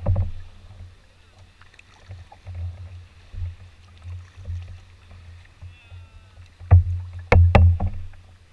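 Knocks on an Old Town Next canoe, one just after the start and three close together near the end, over a low rumble that rises and falls.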